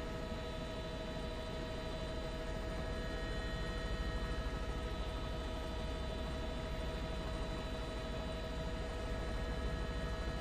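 Helicopter engine and rotor noise heard inside the cabin: a steady hum with several steady whining tones over it and a fast, low throb underneath.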